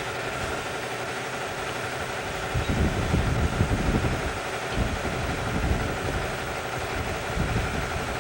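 An engine running steadily at idle, with irregular low rumbling swells.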